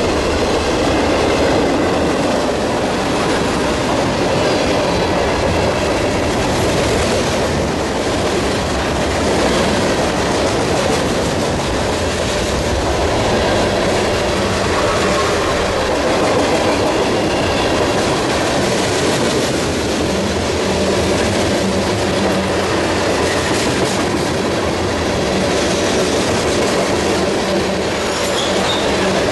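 Freight cars of a CSX manifest train rolling past, a steady loud rumble of steel wheels on rail, with a faint high squeal in the first few seconds.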